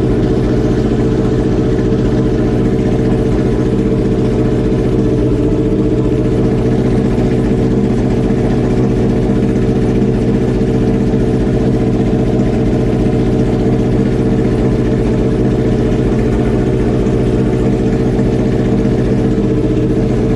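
Kawasaki ZX12R drag bike's inline-four engine idling steadily at an even pitch, under MaxxECU cold-start and idle tuning.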